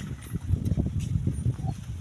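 Irregular low rumble with a few scattered knocks, from split stones being loaded by hand onto a truck.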